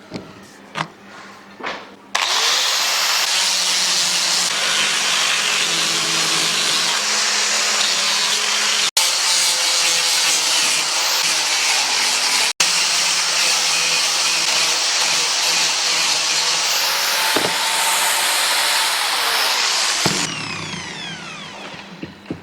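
An electric power tool runs steadily at full speed, starting abruptly about two seconds in, then winds down with a falling whine near the end. A few short knocks come before it starts.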